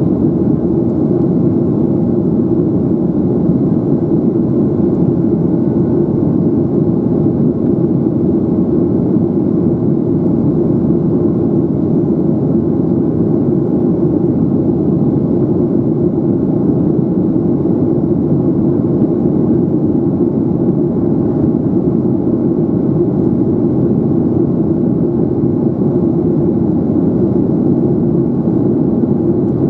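Steady engine and airflow noise inside the cabin of a Boeing 737-800 airliner in flight after takeoff, an even low rumble that holds at the same level throughout.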